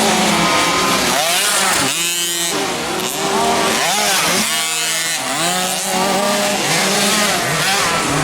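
Several motocross bikes racing, their engines revving up and dropping back over and over as the riders accelerate, shift and back off, with more than one engine heard at once.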